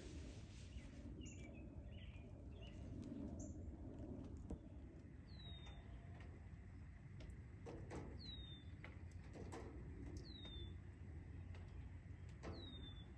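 A bird calling faintly: a short high note that falls in pitch, given four times two to three seconds apart, over faint low background noise.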